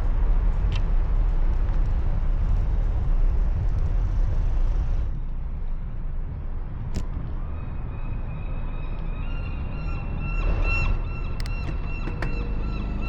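Wind rumbling on the microphone of a moving bicycle. From about eight seconds in, a steady high-pitched whine with several held tones comes in and lasts to near the end.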